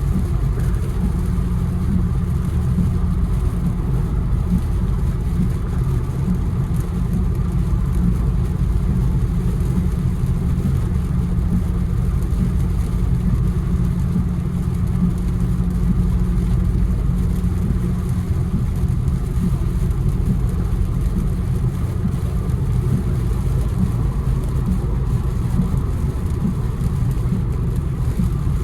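Infiniti Q60 cruising on a wet road, heard from inside the cabin: a steady low drone of engine and tyre noise that holds even throughout.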